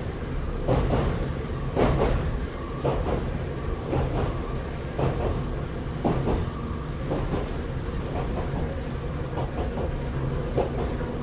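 Running sound inside a Kambara Railway Moha 31 electric railcar: a steady rumble of the moving car, with the wheels clicking over rail joints about once a second.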